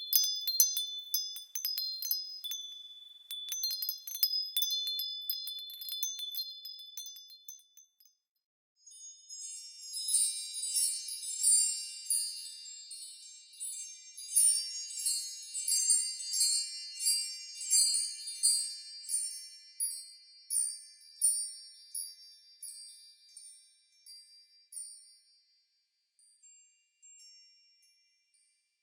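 Wind chimes tinkling. One set of chimes rings out and fades away about eight seconds in. After a short gap a second set starts with many bright high notes struck in quick succession, then thins out and dies away near the end.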